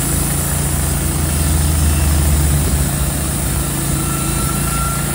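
An engine running steadily, swelling a little about two seconds in.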